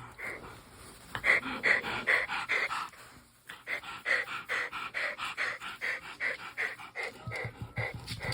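A dog panting, quick short breaths at about two to three a second, with a brief pause about three seconds in.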